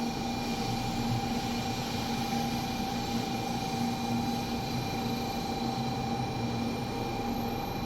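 Steady hum and rush inside a Shinkansen bullet-train carriage, with a few fixed tones held throughout and no change in level.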